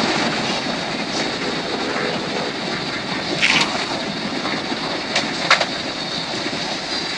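Steady rushing noise of an airplane coming in to land, with a few brief sharp clicks partway through.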